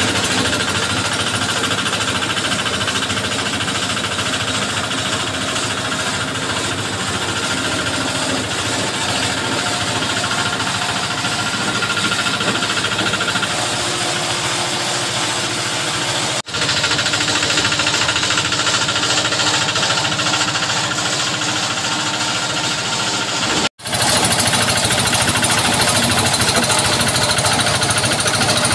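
Engine-driven chopper shredding corn leaves for cattle feed: a small engine running steadily under load with a continuous rattling chop.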